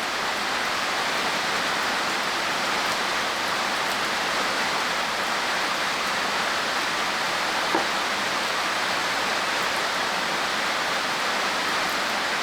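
Steady rain falling, an even hiss of water, with a single sharp tick about eight seconds in.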